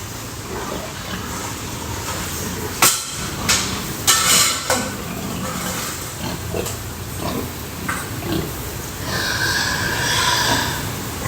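Pigs grunting, with several sharp knocks a few seconds in and a longer, higher squeal near the end.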